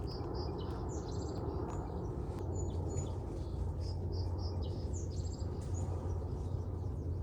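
Small birds chirping in short, repeated high notes over a steady, even background noise.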